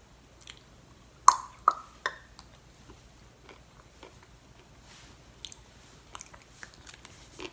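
Orange peel being bitten and chewed: three sharp bites in quick succession a little over a second in, then faint chewing clicks.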